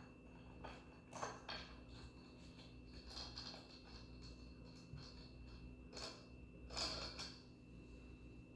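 Faint handling sounds of stool assembly: scattered light clicks, clinks and rustles as metal bolts, washers and the wooden parts are handled, with a louder cluster near the end, over a faint steady hum.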